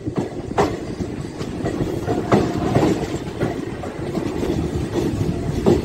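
DEMU passenger train running along a station platform, heard from an open carriage door: a steady rumble of wheels on the rails with a few sharp clacks over the rail joints.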